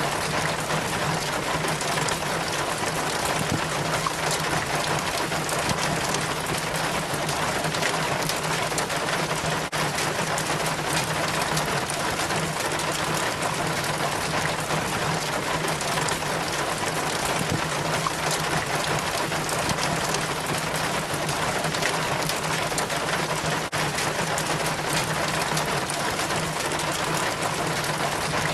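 Rainwater trickling and splashing down a rain chain from the gutter, a steady, dense pattering of drops that does not change, with a steady low hum underneath.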